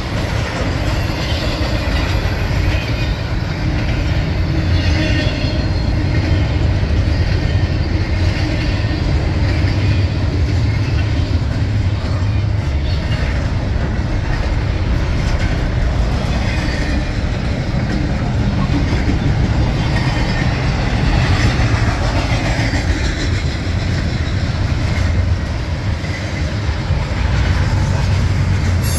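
Intermodal freight train's spine cars and double-stack container well cars rolling past: a steady, loud rumble of steel wheels on rail with rattling of the cars.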